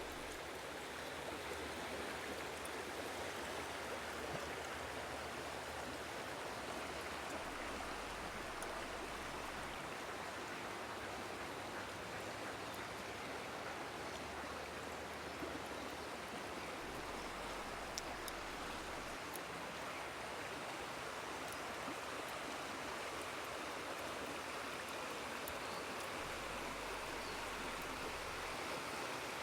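Shallow woodland river flowing and babbling over stones, a steady rushing with a few faint small ticks.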